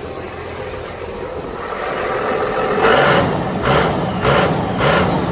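Cummins inline-six diesel running with no exhaust fitted: a steady idle, then revved in four quick blips in the second half.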